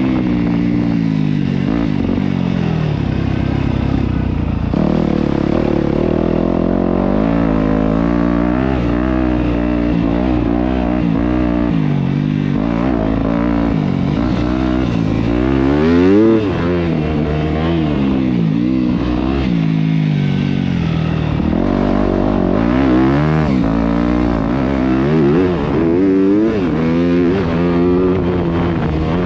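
Yamaha YZ250F dirt bike's 250cc four-stroke single-cylinder engine being ridden, its pitch climbing and falling again and again with throttle and gear changes. The highest, loudest rev comes about halfway through.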